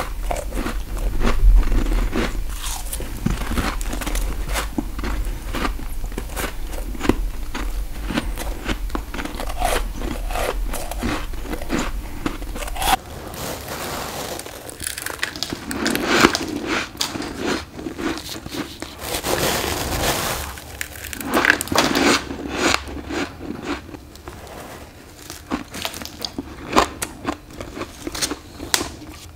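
Close-up biting and crunching of freezer frost ice built up from humidifier mist, dense crisp crackles with louder bites every few seconds. A low hum under the first part stops about 13 seconds in, where one clip gives way to the next.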